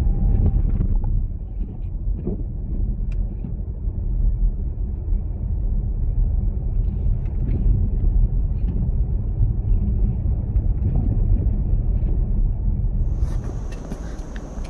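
A motor vehicle's low, steady rumble with a few faint clicks. About thirteen seconds in the sound changes abruptly, and a faint high tone joins the rumble.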